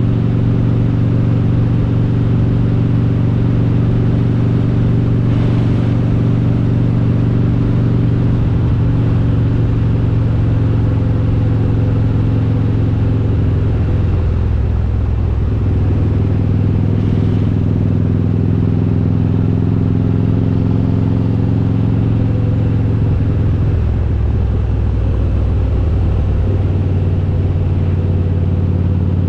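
Harley-Davidson Road King's V-twin engine, built to 95 cubic inches with an S&S kit and Super Stock cylinder heads, running steadily under way. The engine note changes twice, about halfway through and again about four-fifths of the way in.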